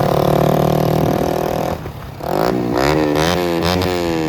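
Yamaha R15M's 155 cc single-cylinder engine running loud through an aftermarket exhaust. It holds a steady note, dips briefly about two seconds in, then revs up in a few quick blips before the pitch falls away near the end.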